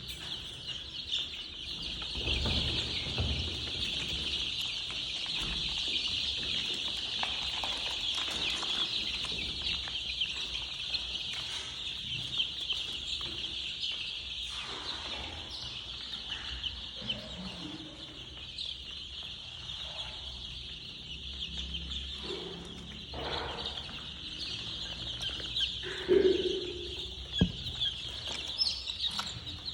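A brood of young chicks peeping continuously in a dense, high-pitched chorus. Occasional soft knocks and rustles sound under it, with a louder thump about 26 seconds in.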